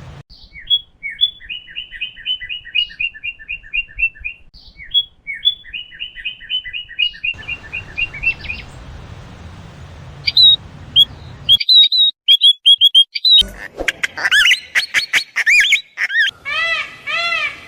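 Birds chirping and singing in several different recordings one after another: fast runs of short repeated chirps first, then sharper high chirps, and near the end a repeated arching call.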